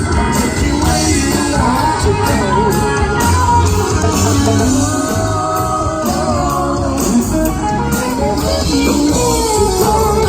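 Live rock band playing, with guitar prominent over a steady bass line.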